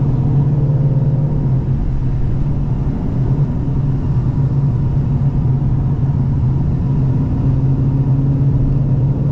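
2014 Mustang GT's 5.0 Coyote V8 running at a steady cruise, a constant low exhaust drone with road noise and no revving or shifts.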